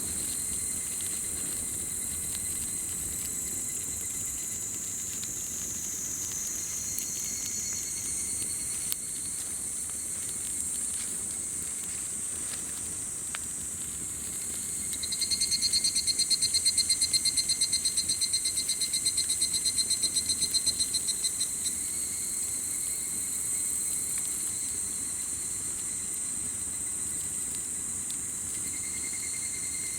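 Insects trilling steadily in several high pitches. About halfway through, a louder, rapidly pulsing trill starts up, runs for about seven seconds and stops. A couple of faint snaps come from the campfire.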